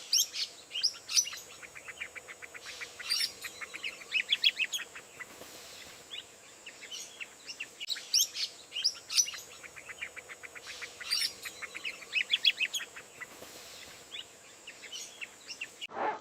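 Small birds chirping and calling: sharp chirps mixed with quick trills of rapid repeated notes, the sequence repeating after about eight seconds.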